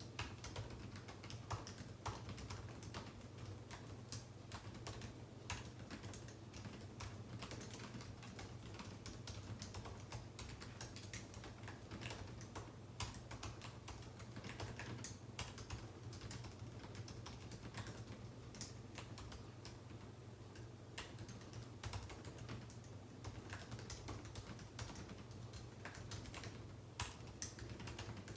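Computer keyboard typing: a continuous irregular run of quick key clicks, with a steady low hum underneath.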